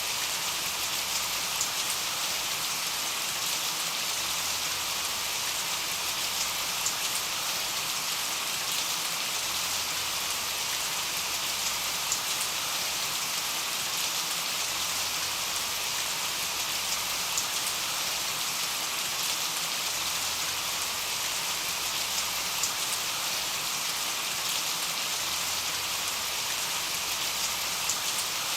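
Steady rain falling and pattering on a surface, an even hiss with occasional sharper drop ticks.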